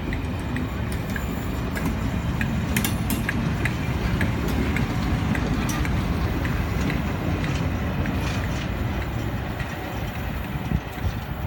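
Steam-hauled charter train running through the station, a steady low rumble with a string of light clicks over it.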